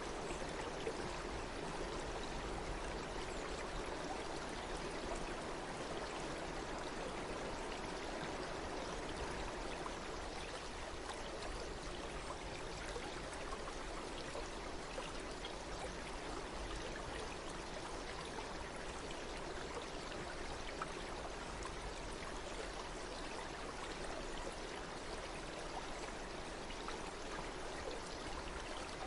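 Running water in a stream, flowing with a steady, even rush.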